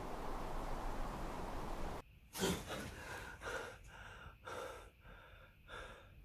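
A steady low rumbling noise cuts off suddenly about two seconds in. A man then breathes hard: one sharp gasp, the loudest sound, followed by several more short, heavy breaths.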